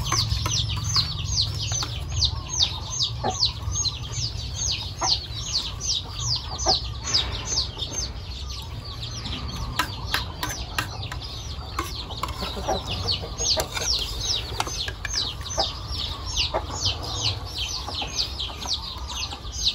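A bird calling without pause: a rapid, steady string of high notes, each sliding downward, about three a second. Short clinks of spoons on plates sound now and then.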